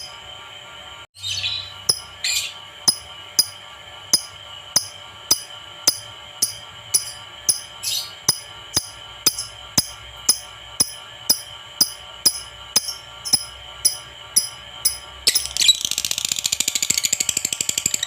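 Lovebird calling: sharp high chirps repeated evenly, about every half second. About 15 s in it breaks into a long, rapid chattering trill.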